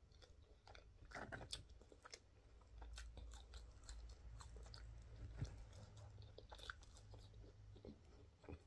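Faint close-miked chewing of a beef burger and chips: irregular small wet clicks and smacks of the mouth, over a steady low hum.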